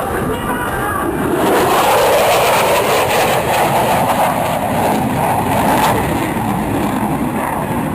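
Military jet aircraft passing overhead: loud jet engine noise that swells about a second in and stays strong, with a slowly shifting whoosh as the jet passes.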